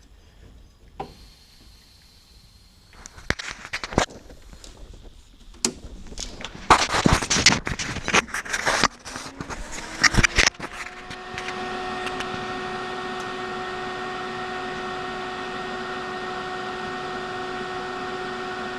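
Clicks and clatter of handling, then an Everlast 185 DV inverter TIG welder powering up: its cooling fan rises in pitch over a few seconds and settles into a steady hum with a whine.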